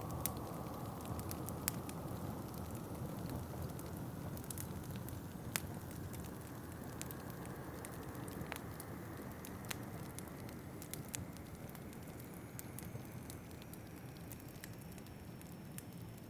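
Wood fire crackling in a fireplace, with scattered sharp pops and snaps over a steady low rush of wind. A faint high whistle comes in over the last few seconds.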